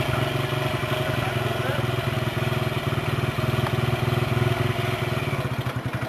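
Dirt bike engine running steadily at low revs, a fast even putter with no revving up or down.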